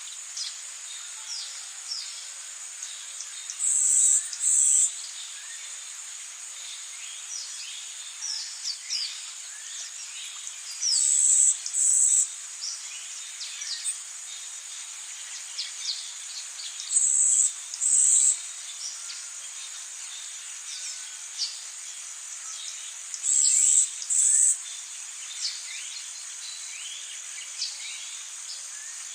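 Rainforest ambience: a steady high insect drone, with many short bird chirps scattered throughout. Four times, about every six or seven seconds, a loud high buzz sounds in a pair of bursts a little under a second apart.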